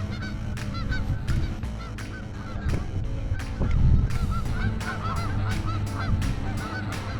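A flock of geese honking, many short calls overlapping, busiest a little past halfway.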